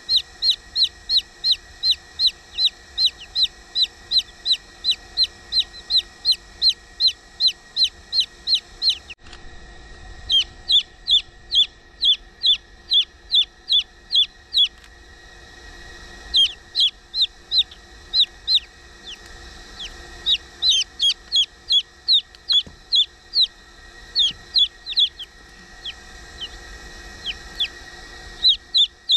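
Chicks peeping: a rapid run of short, high, downward-sliding peeps, about three or four a second. The run breaks off about nine seconds in, then resumes in looser, irregular runs.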